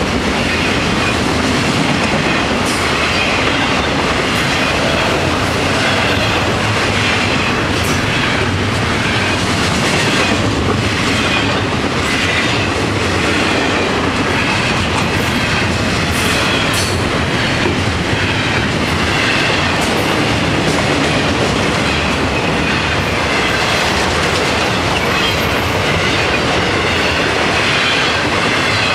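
Florida East Coast Railway freight train's autorack and intermodal cars rolling past at close range: a steady, loud rumble and clatter of steel wheels on the rails, with scattered clicks and a light wheel squeal.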